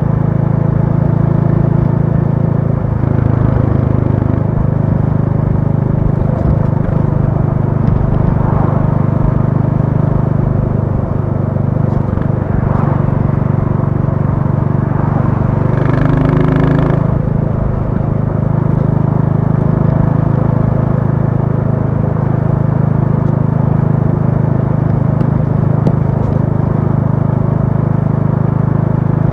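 Royal Enfield Classic 350's single-cylinder engine running steadily under way, its note stepping slightly about three seconds in. A short higher-pitched sound rises over it about sixteen seconds in.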